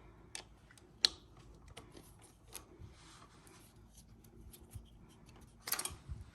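Scattered light clicks and rubbing of small metal tools and handlebar parts being handled, with a sharper click about a second in and a short flurry of clicking and rattling near the end.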